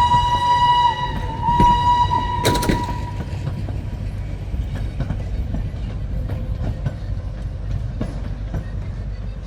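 Locomotive whistle sounding two blasts of one steady pitch, the second cut off by a sharp loud crack, followed by the low steady rumble of a train rolling past with scattered clicks from the wheels.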